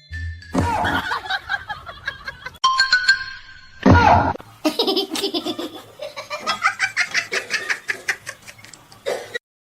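Person laughing hard in fast, repeated bursts, with abrupt cuts between short clips.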